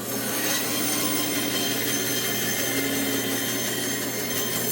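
Bandsaw running steadily while its blade cuts through a wooden branch.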